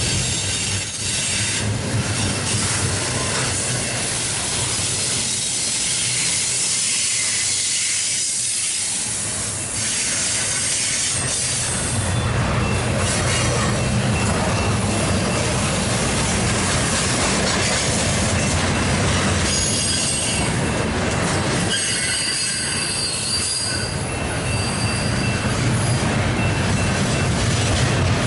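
Double-stack intermodal container cars rolling past at speed, with a continuous rumble and clatter of steel wheels on the rails. Thin high-pitched wheel squeal comes and goes.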